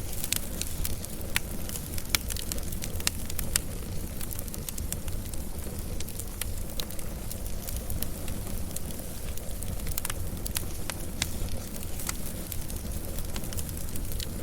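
Wood fire burning, with a steady low rumble and irregular sharp crackles and pops throughout.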